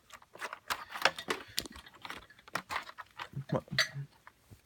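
Scattered light clicks and taps of a vacuum cleaner's plastic parts and cord being handled, with the motor off, and a brief faint mumble.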